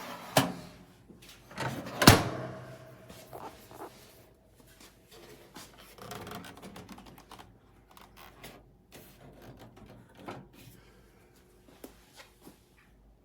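Two sharp knocks, the second about two seconds in and the loudest, followed by scattered light clicks and handling clatter of objects being moved about.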